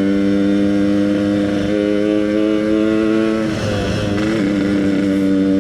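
Yamaha RX-King's two-stroke single-cylinder engine with an EnzyProject aftermarket exhaust, running steadily under way. Its note rises slightly, dips briefly about three and a half seconds in, then holds steady again.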